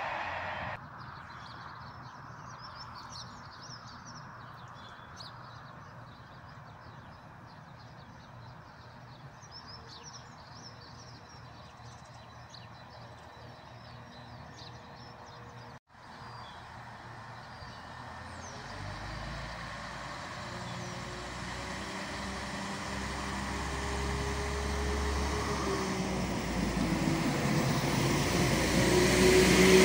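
Quiet station ambience with faint bird chirps, then, from about halfway, a Transport for Wales Class 197 diesel multiple unit running into the platform: a low engine rumble and a pitched tone rising a little near the end grow steadily louder.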